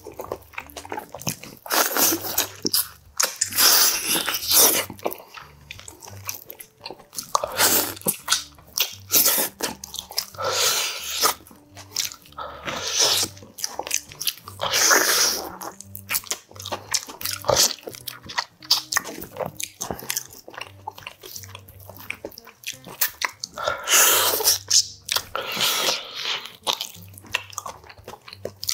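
Biting and chewing boiled beef oxtail, gnawing the meat off the bone, in irregular bursts with short pauses between.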